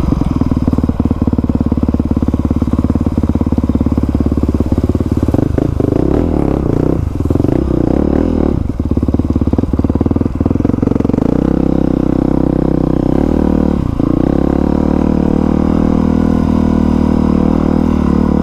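Dirt bike engine running at low, fairly even revs while riding slowly along a trail, with a few knocks and rattles in the middle; the engine note settles steadier in the second half.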